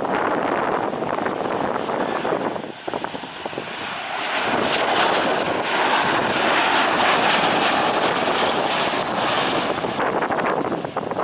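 Airliner's engines on landing, the noise swelling about four seconds in, holding with a faint high whine, then easing off near the end as the aircraft passes.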